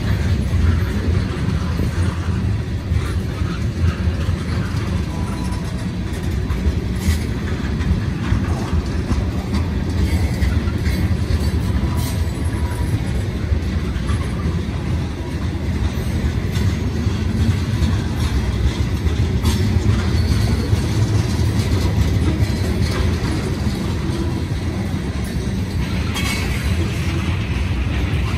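Freight train rolling past: a steady low rumble of the cars, with now and then a sharp click of wheels over the rail joints.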